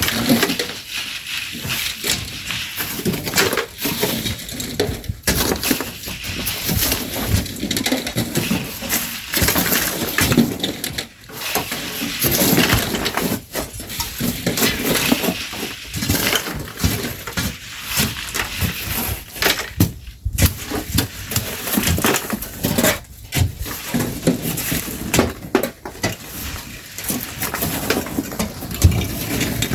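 Shovels digging and scraping into sand and gravel with a dense, irregular run of crunching scrapes and knocks, as sand is loaded by hand.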